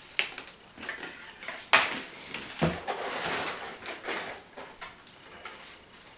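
Packaging being handled during an unboxing: a few sharp knocks and clicks, the loudest a little under two seconds in, and then a stretch of rustling.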